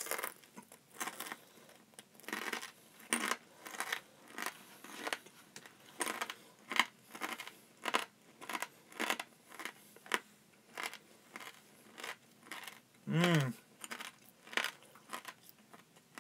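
Chewing of a crunchy edible bug: crisp crunches about twice a second, steady and rhythmic. About 13 seconds in the eater gives a short hum.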